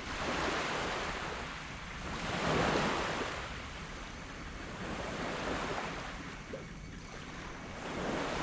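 Small sea waves breaking and washing up a sand beach in a steady rhythm, four surges in a row. The loudest surge comes about a third of the way in.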